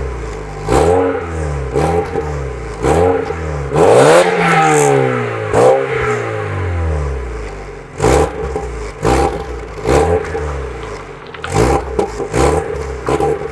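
VW Golf Mk3 engine with the catalytic converter removed, revved repeatedly, each rev climbing and then dropping back, with a raspy exhaust note. From about eight seconds in come quicker short throttle blips with sharp pops and bangs from the exhaust.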